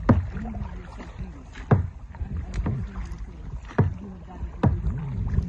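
Kayak paddling: five sharp paddle splashes or knocks, about one a second, over a low wind rumble on the microphone.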